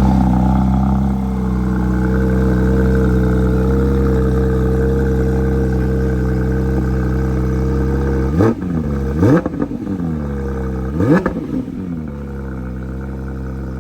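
Porsche 992 GT3 RS's naturally aspirated flat-six idling just after being started, then revved in three quick throttle blips about eight and a half, nine and a half and eleven seconds in. It settles to a lower, quieter idle near the end.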